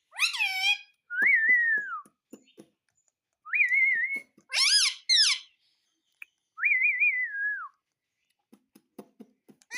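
Pet parrot whistling and calling: three clear whistled notes, each about a second long, alternating with short harsh squawk-like calls, with faint clicks between them.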